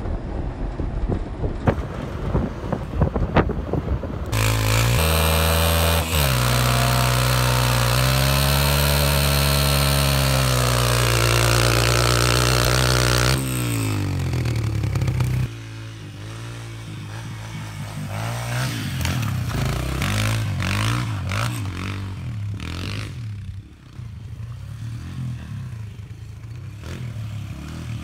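Pit bike engine revving hard, its pitch climbing and falling, loudest for about nine seconds from four seconds in, then easing off and revving up and down more quietly. Clatter and scraping in the first few seconds.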